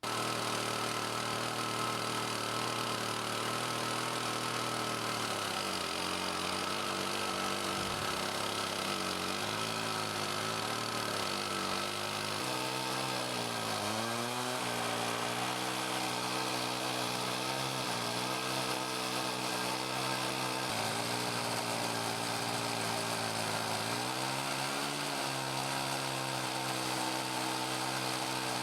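Chainsaw in an Alaskan chainsaw mill running at high speed under load, ripping a slab lengthwise from a maple log. It starts abruptly, and its pitch dips briefly several times as the cut loads the engine.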